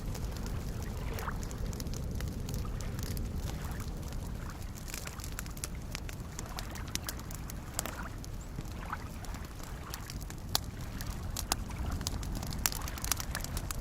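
Wood fire crackling with sharp pops over the steady low wash of small waves lapping at a lakeshore. The crackles grow busier about halfway through, with a few louder snaps near the end.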